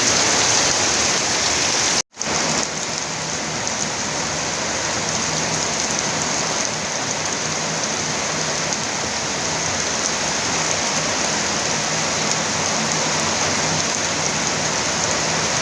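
Heavy rain falling steadily. About two seconds in, the sound drops out for an instant and comes back slightly quieter.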